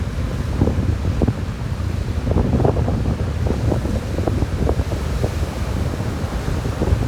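Strong wind buffeting the microphone: a steady low rumble with irregular gusty flutters, busier from about two seconds in.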